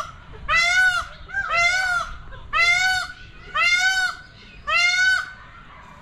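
A large bird calling loudly in a series of evenly spaced calls, about one a second, each about half a second long and rising then falling in pitch; the series stops about five seconds in.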